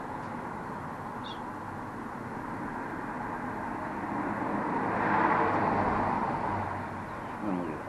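A vehicle passing by outdoors: a steady rushing noise swells to a peak about five seconds in, then fades away. A short high chirp comes about a second in.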